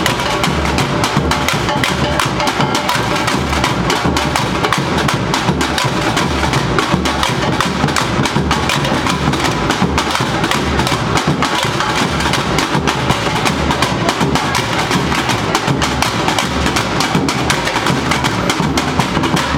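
Samba bateria, a university drum corps, playing: a steady pulse of bass drums under dense, fast snare and other drum strokes, with no break.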